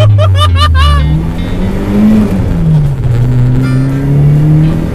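Turbocharged Toyota 4A-GE four-cylinder engine heard from inside the cabin, its revs falling, rising around two seconds in, dipping and climbing again. In the first second the driver lets out excited wordless whoops over the engine.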